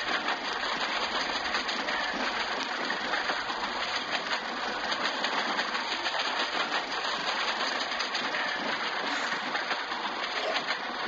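Steady din of a busy Indian railway platform: a dense wash of noise with fine clatter and no clear voices.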